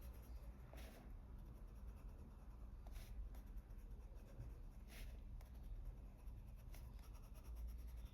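Colored pencil shading on paper in small circles with light pressure, a faint scratching with a few soft ticks, over a low steady room hum.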